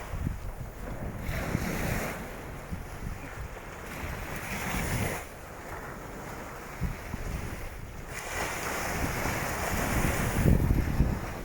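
Wind buffeting the microphone over waves washing onto a beach. The surf swells up three times, loudest near the end.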